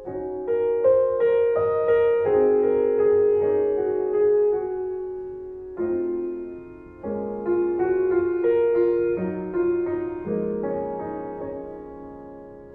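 Slow piano music: notes and chords struck every second or so and left to ring.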